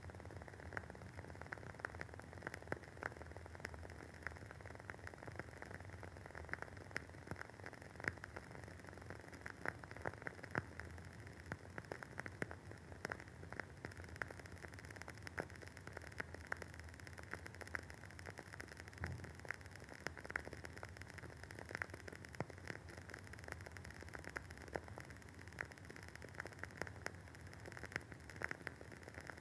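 Wooden wick of a WoodWick candle burning with a soft, irregular crackle: many small pops and clicks over a faint steady hiss, a few of them louder.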